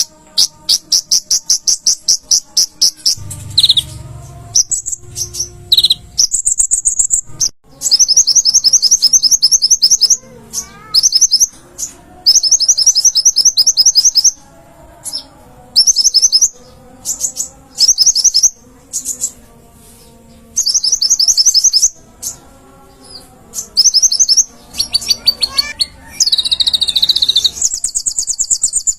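Kolibri ninja (van Hasselt's sunbird) singing in full voice: bursts of rapid, high-pitched trills, each a second or two long, repeated again and again with short gaps.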